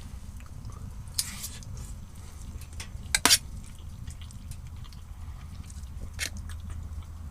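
A few scattered light knocks and clicks, the loudest a quick double knock about three seconds in, over a steady low rumble.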